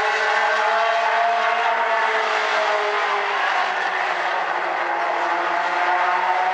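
A pack of race cars' engines running hard around a short oval track, several engines overlapping. Their pitch sags in the middle and climbs again near the end.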